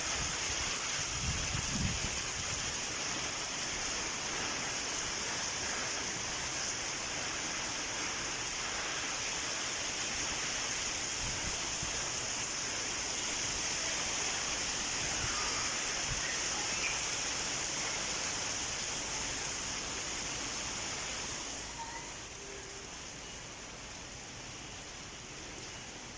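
Heavy rain pouring down in a steady hiss, easing somewhat late on.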